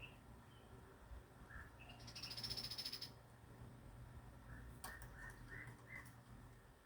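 Birds chirping faintly in short notes, with a rapid trill about two seconds in and a quick run of chirps near the end.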